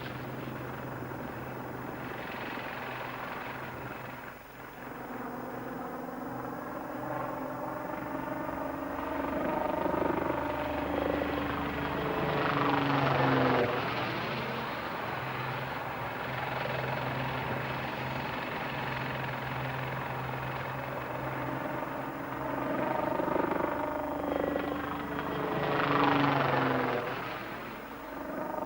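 Westland Lynx helicopter flying, its twin turboshafts and rotor running steadily. It passes close twice, about halfway and near the end, each time louder and with the pitch dropping as it goes by.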